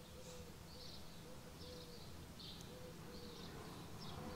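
Faint outdoor birdsong: short high chirps repeating every half second or so, with a faint lower note recurring alongside, over a steady low background rumble.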